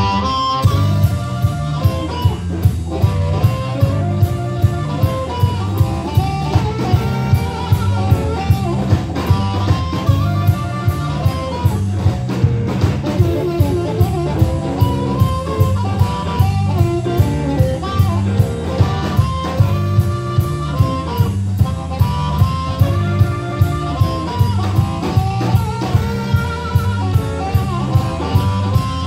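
Live band playing a blues-style number: electric guitar over bass and drum kit, with a steady beat of about two drum hits a second.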